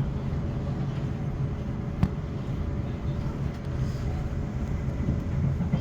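Class 450 electric multiple unit running along the line, heard from inside the carriage: a steady low rumble of wheels and running gear, with a single sharp click about two seconds in.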